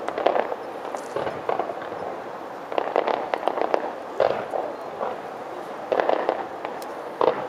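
Aerial fireworks shells bursting in repeated volleys, each a cluster of sharp bangs and crackles, coming every second or two.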